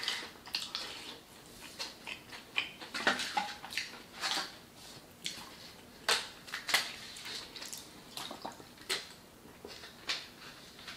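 A person chewing a mouthful of food with wet mouth clicks and lip smacks, irregular and uneven, with a handful of louder smacks.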